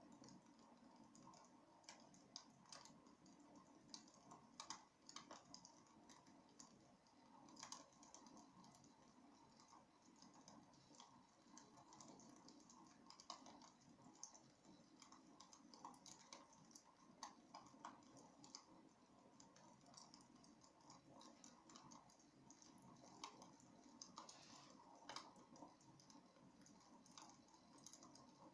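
Faint wood fire crackling in a fireplace: a low steady hiss with irregular small pops and snaps.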